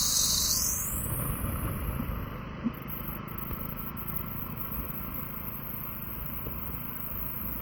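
Steady low rumble of city street traffic heard from a moving bicycle, mixed with wind buffeting the microphone.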